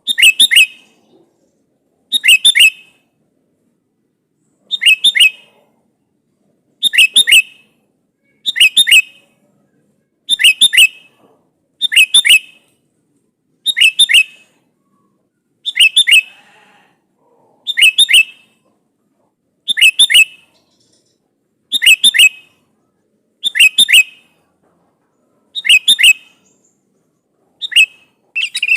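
Sooty-headed bulbul (kutilang) calling: a short, loud phrase of two or three quick notes, repeated at a steady pace about every two seconds, the call it gives to challenge a rival.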